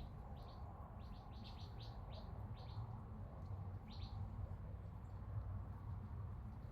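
Faint bird chirping: a run of short, high, downward-sweeping chirps, most of them in the first three seconds and another about four seconds in, over a low steady background rumble.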